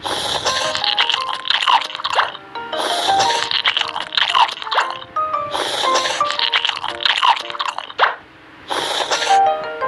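Crunching bites into tanghulu, the hard candy-glazed fruit, its sugar shell cracking, over background music with sustained melodic notes; the crunches come in short bursts about every three seconds, with a brief lull near the end.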